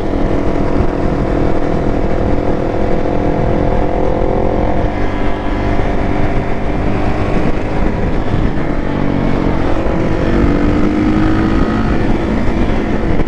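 Motorcycle engine running at a steady cruising speed under a dense low rumble, its note rising a little about ten seconds in.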